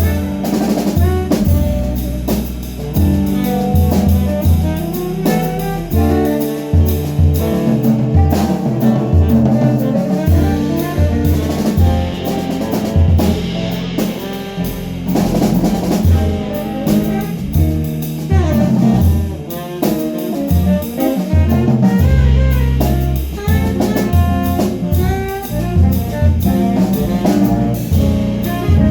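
Jazz band playing an instrumental passage, with drum kit keeping time under melodic instruments and a moving low bass part.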